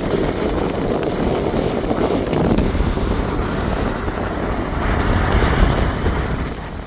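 Strong wind buffeting the phone's microphone over heavy storm surf, a dense rumbling noise that eases a little near the end.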